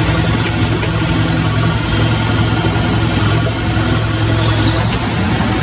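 An engine idling: a steady, even low hum with no revving.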